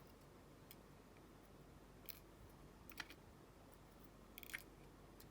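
A few faint clicks of tiny padlock cylinder parts, the pin springs, being handled and moved on a tray, heard about two, three and four and a half seconds in.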